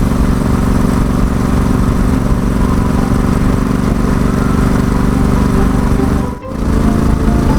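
Yamaha XSR700's 689 cc parallel-twin running steadily through an SP Tadao Power Box Full RS exhaust while riding at a steady cruise. The sound dips out briefly about six and a half seconds in.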